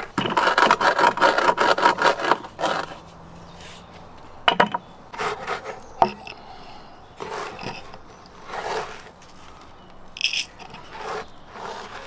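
Fast, even scraping strokes for about two and a half seconds, then a few scattered scrapes and a knock.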